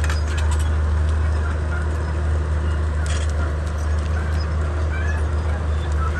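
Komatsu D31P bulldozer's diesel engine running steadily under work, with a deep, even drone, scattered clicks and a few short high squeaks over it.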